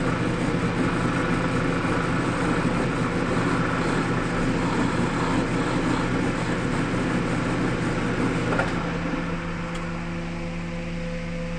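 Wood lathe running with a steady motor hum, while a tool works against the spinning wood with a rough scraping noise that stops about eight and a half seconds in, leaving the lathe humming.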